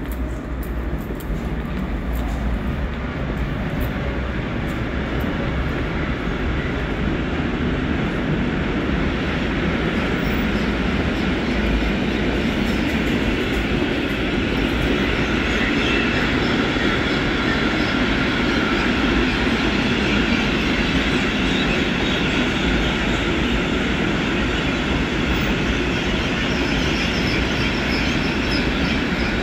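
A train running on the rails: a steady rumble and rush of wheel noise that builds over the first couple of seconds and then holds.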